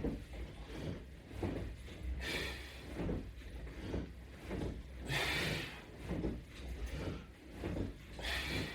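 Repeated rubbing and sliding sounds from resistance straps and hand grips on a latch bar during a set of ab crunches, with short pulses every ¾ s or so and a louder hissing swish about every three seconds, one per crunch.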